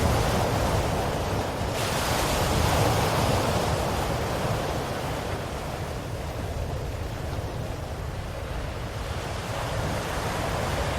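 Ocean waves breaking: a wave surges about two seconds in, then its wash slowly fades away, and the next wave builds near the end.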